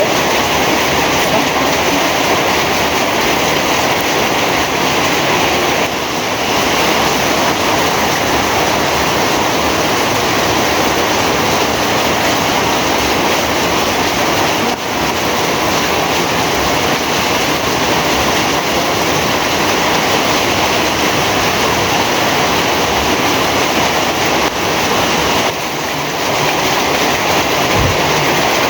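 Heavy rain falling, a dense steady hiss with a few brief dips in loudness.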